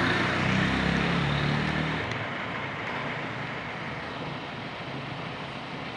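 An engine running with a low, wavering hum, loudest over the first two seconds and then fading into a steady background rumble.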